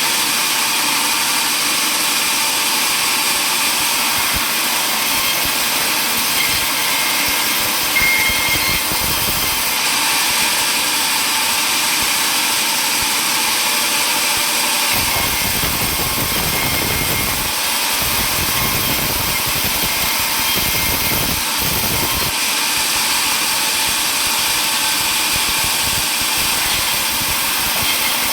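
Table saw running steadily, its motor and blade giving a loud, even noise, with a low rumble coming and going in places.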